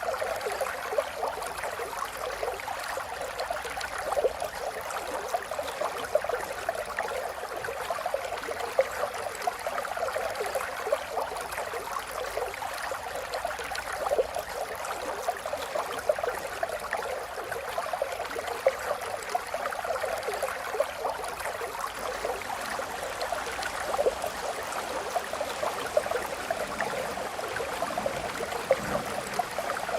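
Running water of a small stream, steadily trickling and gurgling with a constant fine splashing.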